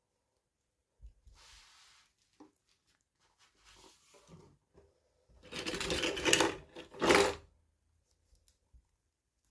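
Toy packaging being handled and torn open: soft rustles, then a louder stretch of tearing and crinkling about five and a half seconds in, with a short final rip just after seven seconds.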